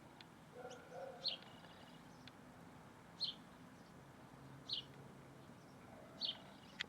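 A small bird repeating a short, high chirp about every one and a half seconds, with a brief lower call about a second in.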